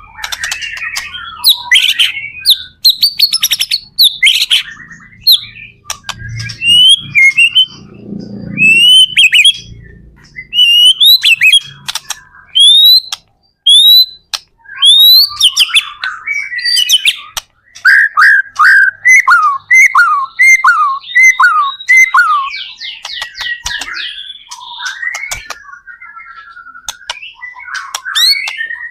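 White-rumped shama singing a loud, varied song of rich whistles, rising slurs and fast trills. In the second half it repeats a falling whistled note about ten times in a row.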